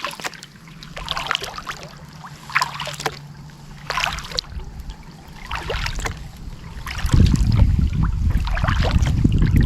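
Kayak paddle strokes with water splashing and dripping in short, irregular spurts. About two-thirds of the way in, wind starts buffeting the microphone with a loud low rumble.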